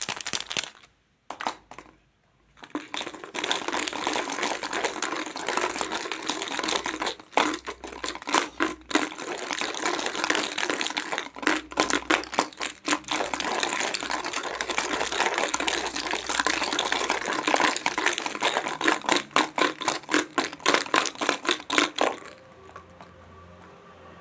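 Dense plastic crinkling and crackling with rapid clicks, as toy fruit or its packaging is handled. It stops abruptly near the end, leaving a faint low hum.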